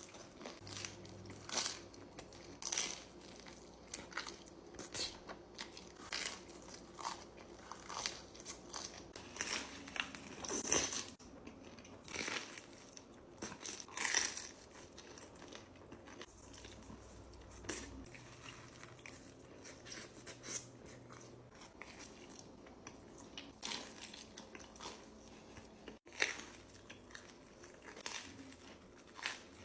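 Close-miked eating: irregular crisp crunches from biting into food, with chewing in between.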